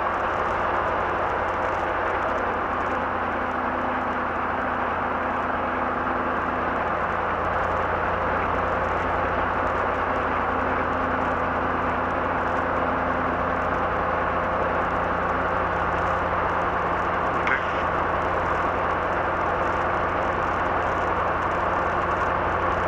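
Robinson R22 helicopter's piston engine and rotors running, a steady drone heard from inside the cabin. A single brief click comes near the end.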